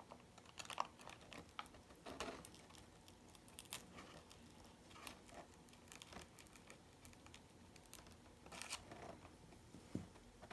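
Faint crinkling and rustling of paper being handled, with scattered small taps; a soft thud near the end.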